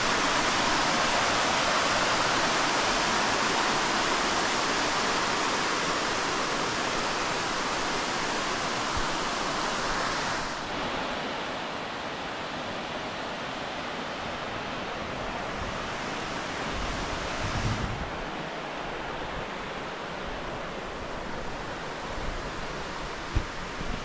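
Steady rushing of a waterfall, a dense hiss of falling water. About ten seconds in it drops abruptly to a quieter, duller rush, and it shifts again near eighteen seconds.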